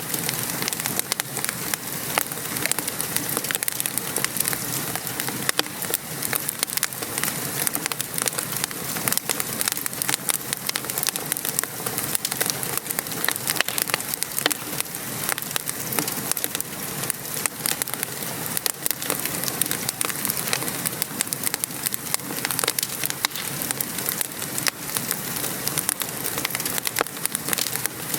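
Steady rain patter mixed with a wood fire crackling, many small sharp pops and snaps over an even hiss.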